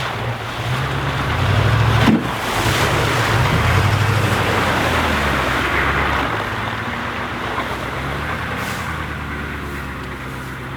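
A vehicle engine running under load while driving, building up over the first two seconds, with a sharp knock about two seconds in, then settling and easing off.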